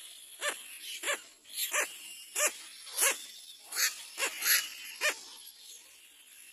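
Short, high-pitched animal calls repeated about every half second, nine or so in a row, stopping about five seconds in.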